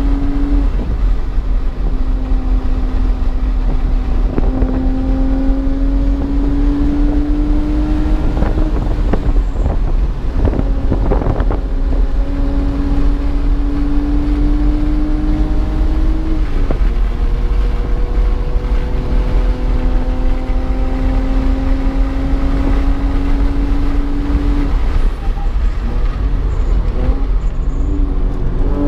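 BMW engine pulling hard on track, its note climbing slowly in pitch and then dropping back about five times as the driver shifts or lifts, over a heavy rumble of road and wind noise. A few short knocks sound near the middle.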